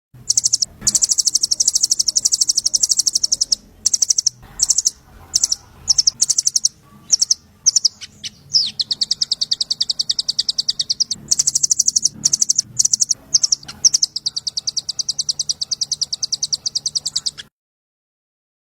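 Juvenile white-rumped shama (murai trotol) calling in runs of rapid, evenly repeated high chips, broken by short pauses, cutting off abruptly near the end.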